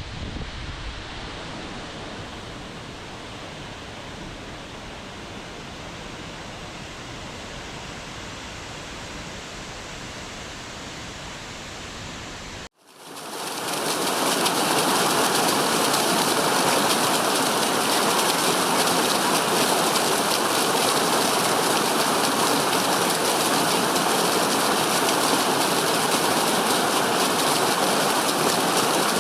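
Waterfall: a steady rush of falling water. About halfway through it cuts out for an instant, and a louder, brighter rush of water fades in and holds steady.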